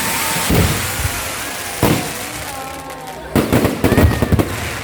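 Fireworks going off: several sharp bangs, with a quick cluster of them near the end, over a continuous crackling hiss. Voices are faintly heard underneath.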